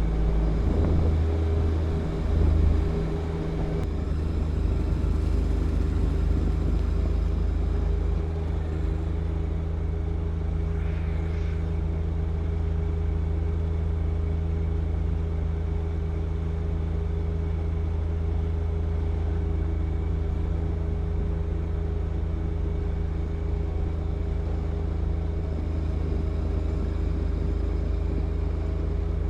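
John Deere 1025R compact tractor's three-cylinder diesel engine running steadily at a constant speed while it drives its snow blower, with a brief swell about two and a half seconds in.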